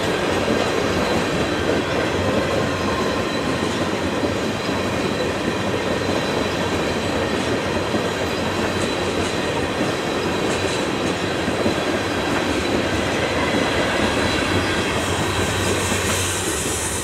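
Train rolling past on the rails: a loud, steady rush of wheel-on-rail noise with a thin squeal tone, cut off abruptly at the end.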